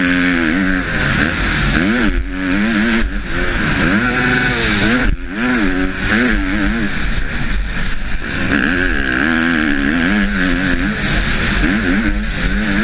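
Husqvarna motocross bike's engine heard from the rider's helmet, revving up and falling away again and again as the throttle is opened and closed, with brief sudden drops about two, three and five seconds in.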